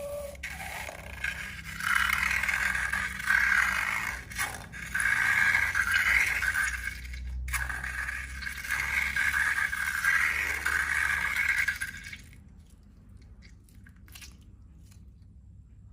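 Scraping and rubbing of slime-making in repeated uneven strokes, stopping about twelve seconds in, with a few faint clicks after.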